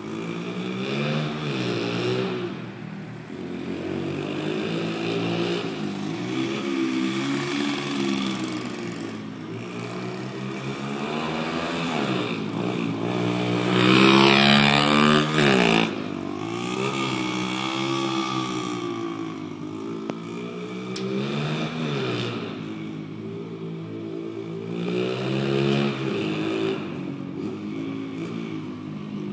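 Pit bike engine revving up and falling back again and again as it is ridden, the pitch climbing and dropping every few seconds. It is loudest about halfway through, when it rises sharply to a high rev and then drops away.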